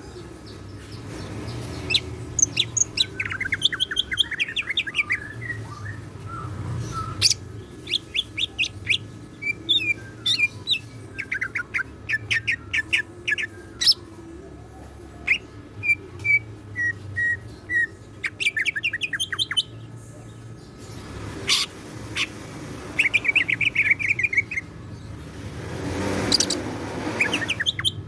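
Green leafbird (cucak ijo) singing actively, a varied song of rapid chirp runs, trills and repeated whistled notes in quick separate phrases.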